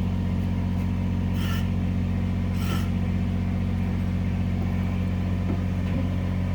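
Tractor engine running steadily with an even, unchanging hum while the tractor holds and moves a hoisted engine. Two short, sharper noises come about a second apart, early in the sound.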